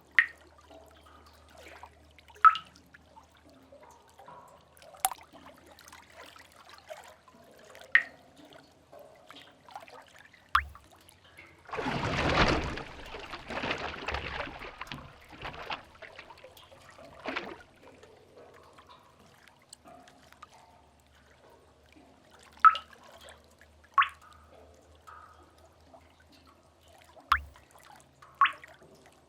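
Sea-cave water ambience: single water drips plinking into a pool at irregular intervals of a few seconds, with one wave surging in and splashing about twelve seconds in for some four seconds, over a faint low rumble.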